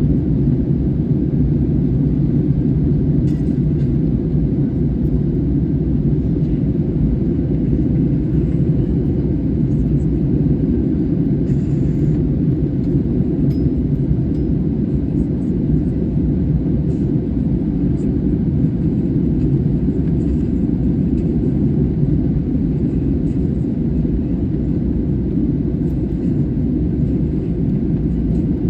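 Steady low rumble of a jet airliner around landing, unchanging in level, with a few faint high clicks.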